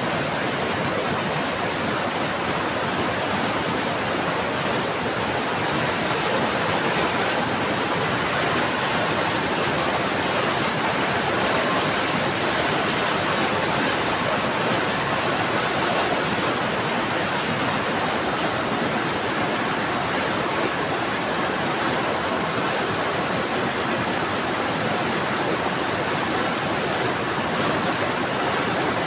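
Heavy rain falling steadily, a dense, even hiss with no thunder or single drops standing out.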